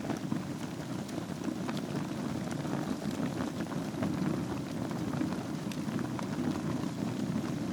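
Wood fire burning in a fireplace: a steady low rumble of flames with frequent small sharp crackles and pops scattered through it.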